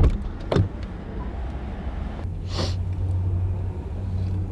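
Steady low rumble of a Toyota 4Runner heard from inside the cabin, with a couple of sharp knocks in the first second and a short hiss about two and a half seconds in.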